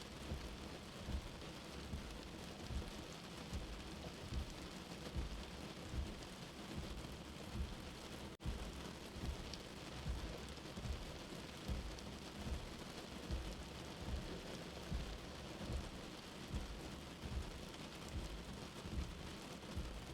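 Steady rain with a slow, low heartbeat under it, thumping in double beats about every two and a half seconds. The sound cuts out for an instant about eight seconds in.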